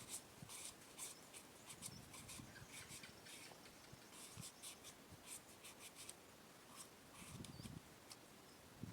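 Faint, irregular light clicks and rustles, like small handling noises, with a brief low rumble about three-quarters of the way through.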